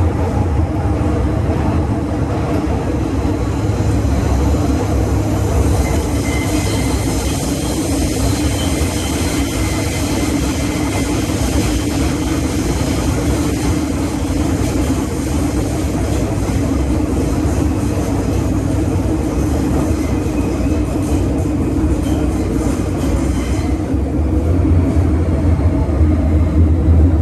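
MTR M-Train (Metro-Cammell EMU) heard from inside the passenger car while running between stations: a steady low rumble of wheels and running gear, with a rushing hiss that builds about six seconds in and eases near the end.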